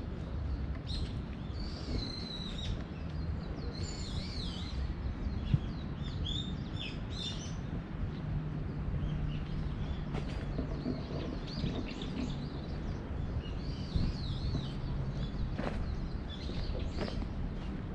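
Wild birds chirping and calling in short, bending notes again and again, over a steady low background rumble.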